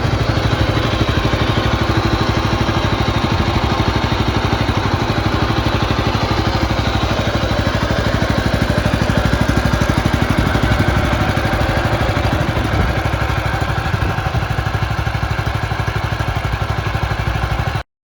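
Kohler CH440 single-cylinder petrol engine of a Belarus 152 compact tractor running steadily with an even, rapid pulse. The sound cuts off suddenly near the end.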